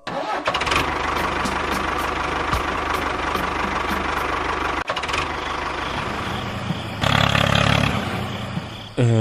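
Small engine-like motor running steadily. It breaks off abruptly about five seconds in and gets louder for about a second around seven seconds in.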